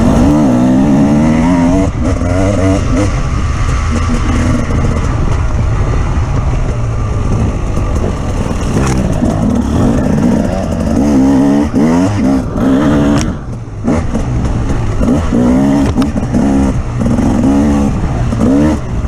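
Off-road vehicle engine under load, revving up and down repeatedly as it is driven over rough ground, with a short dip in the revs about two-thirds of the way through.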